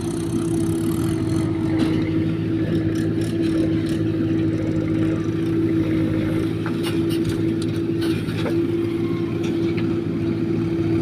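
Backhoe loader's diesel engine running at a steady speed with a constant whine over its drone, and a few faint knocks.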